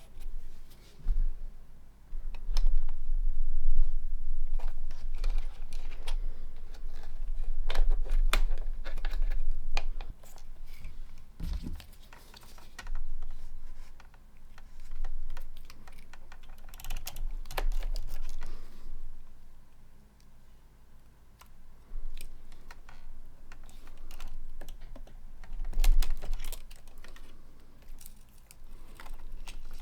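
Irregular clicks, taps and occasional low thumps of tools and parts being handled at an electronics workbench.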